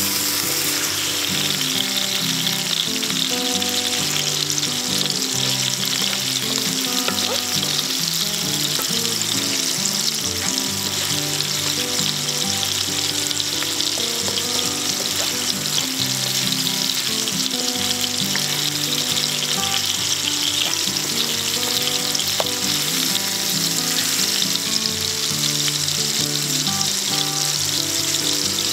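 Mahi mahi fillet frying in hot fat in a pan, a steady loud sizzle, with now and then a wooden spatula scraping and nudging the fish.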